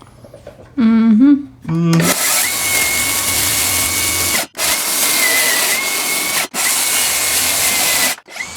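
Circular saw cutting into the subfloor, its blade set just deeper than the 3/4-inch boards. It starts about two seconds in and runs in three long stretches, each broken by a short drop, with a steady high whine over the cutting noise.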